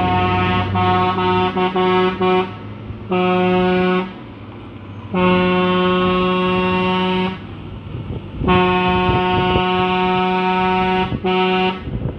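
Truck horn sounded in a series of blasts at one steady pitch: a stuttering run of short toots for the first couple of seconds, then a short blast, a two-second blast, a longer one of about two and a half seconds, and a brief last toot, over the noise of vehicles on the road.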